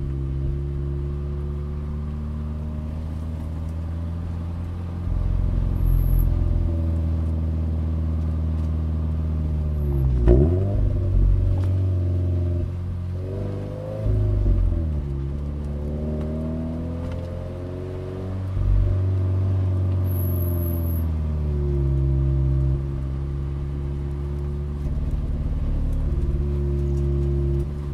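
Toyota 86's 2.0-litre flat-four boxer engine under way, heard from inside the cabin. Its pitch rises and falls with throttle and gear changes, and the loudness steps up and down as the throttle is opened and closed. About ten seconds in, the revs climb quickly and drop back.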